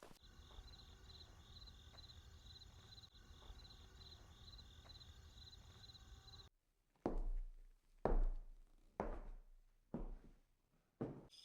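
A steady, high pulsing chirp over a low hum, typical of a jungle insect chorus. It cuts off abruptly, followed by five heavy footstep-like thuds about a second apart.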